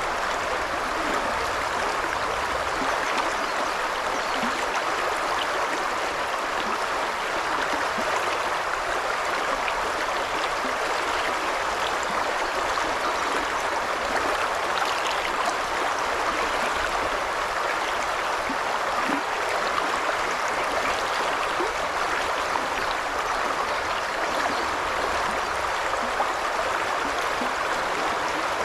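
Shallow river babbling steadily over stones, a continuous water rush with small gurgles and splashes.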